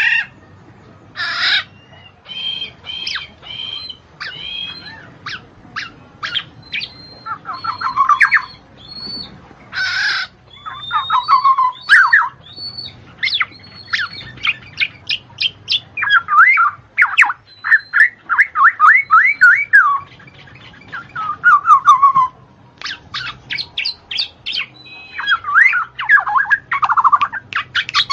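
Birds chattering: a busy run of short chirps, whistled notes and squawks, with longer warbling passages of quick falling notes.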